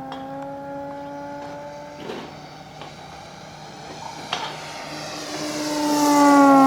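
Large electric RC AT-6 Texan model flying on a 20x10 WWII-profile propeller, throttled back. Its propeller drone fades as it flies off, then grows loud and drops in pitch as the plane passes close by near the end.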